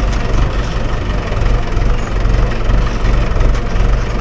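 Mahindra 575 DI tractor's four-cylinder diesel engine running steadily with a low drone.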